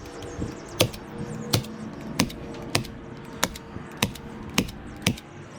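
Staples being driven one after another into marine carpet over boat-deck plywood: eight sharp snaps, about one every two-thirds of a second.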